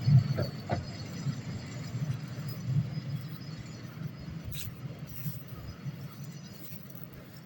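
Narrow-gauge train running with a low rumble that slowly fades, with a couple of short knocks in the first second.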